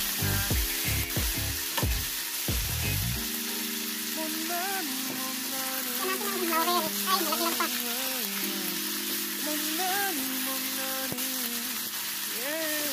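Chicken pieces and potato chunks sizzling steadily as they fry in oil in a wok, stirred with a spatula.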